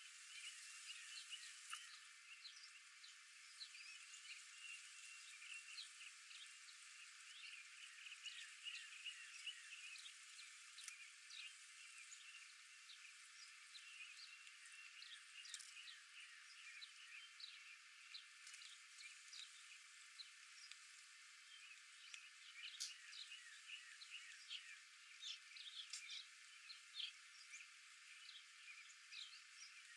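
Faint outdoor chorus of many small birds chirping, a steady stream of short high notes and quick downward sweeps, over a constant high hiss of the background.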